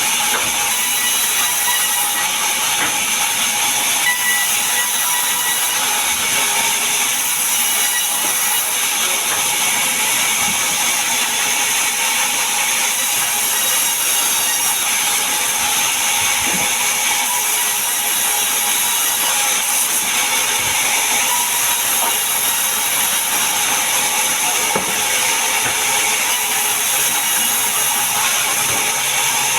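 A power saw cutting through mahogany timber: a steady, high-pitched hiss and whine of the blade in the wood, unbroken throughout.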